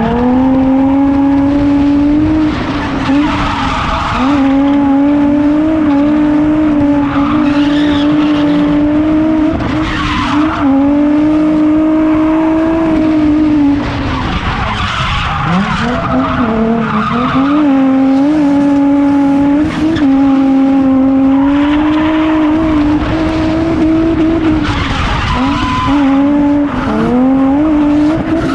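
Drift car engine held high in the revs through long slides, with tyres squealing. The revs drop sharply about halfway and climb back, and dip briefly a few more times.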